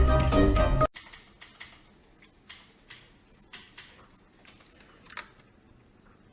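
A chiming music-box-like tune that cuts off abruptly about a second in, followed by faint, irregular light clicks and taps, with a louder cluster of clicks about five seconds in.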